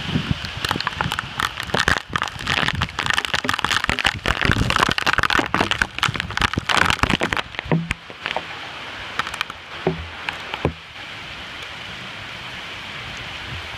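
Heavy thunderstorm rain falling with gusty wind, a dense crackling downpour with buffeting for the first half. It then settles into a steadier, quieter hiss of rain, with a few single knocks after the halfway point.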